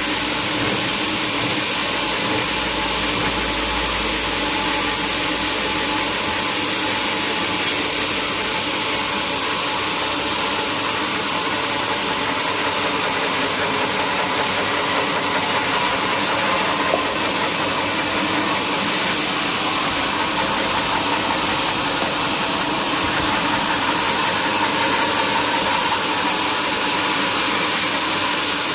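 Sawmill machinery running steadily: an engine hum under a constant loud hiss, with no pauses.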